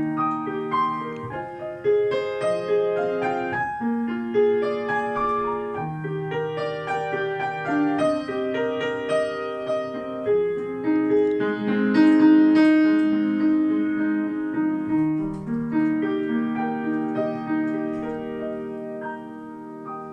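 Grand piano playing the introduction to a children's song: a melody over sustained chords, dying away on the last chord near the end.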